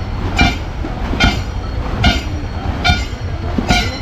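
Snake boat crew rowing in unison: a paddle stroke beat comes about every 0.8 s, each marked by a short pitched call or shout that keeps the rowing rhythm.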